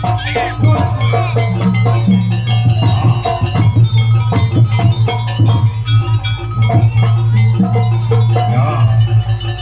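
Live jaranan ensemble music: frequent drum strokes over a steady low drone, with pitched metallic tones stepping between notes.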